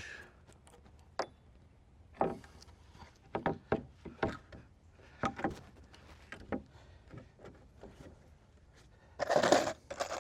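Wooden decking boards being handled and knocked into place: a series of separate knocks and thuds, with a sharp click about a second in and a louder scraping clatter near the end.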